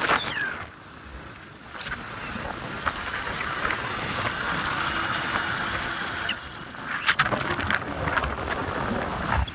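Steady wind rushing over the microphone with the road noise of a motorcycle ride, a few sharp knocks about seven seconds in.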